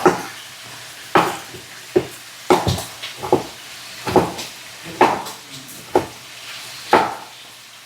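Beefsteaks frying in a pan with a steady sizzle, broken by about ten sharp kitchen knocks, roughly one a second, some in quick pairs.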